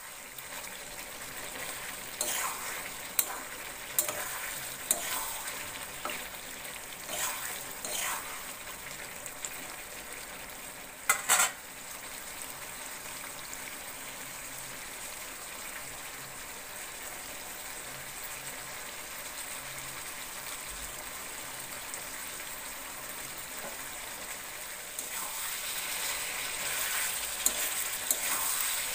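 Boiled potatoes sizzling in oil and spiced gravy in a pan, with a spoon knocking and scraping against the pan as they are stirred. Sharp taps come in the first dozen seconds, with a louder double knock about eleven seconds in, and the stirring grows louder near the end.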